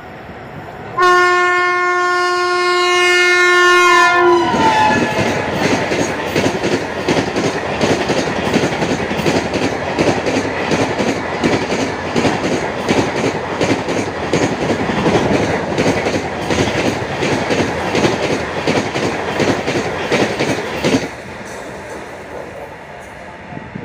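An express train running through the station at full speed. Its locomotive horn sounds for about three seconds and falls in pitch as the engine passes. The coaches' wheels then rush and clatter rapidly over the rail joints for about sixteen seconds, and the sound cuts off suddenly as the last coach goes by.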